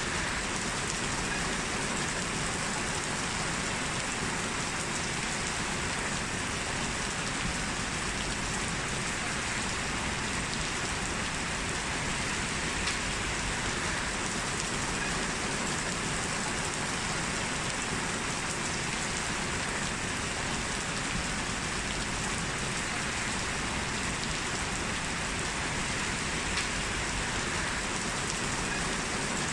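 Heavy rain falling steadily, a dense even hiss with faint individual drop ticks.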